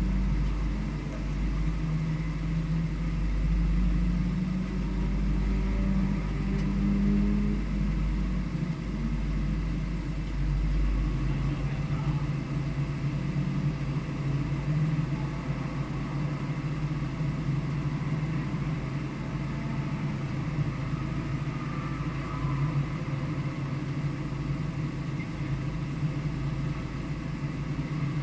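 A vehicle's engine running on a race circuit, its pitch rising and falling with the throttle for about the first ten seconds, then steadier, over a low rumble.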